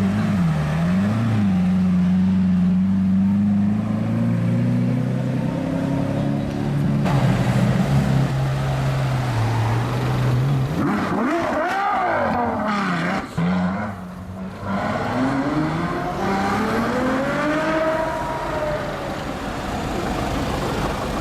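Car engine running with a steady low note and two quick throttle blips at the start, then revved hard up and down around the middle. Later a long engine note rises and then falls as a car accelerates.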